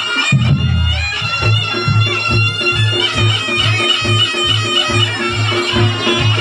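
Reog Ponorogo ensemble music: a slompret (Javanese shawm) plays a nasal, wavering melody over a steady low drum-and-gong beat of about two to three strokes a second.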